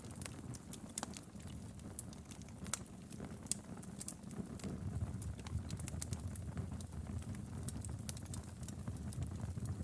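Wood fire in a fireplace crackling, with sharp irregular pops and snaps over a steady low rumble of the flames.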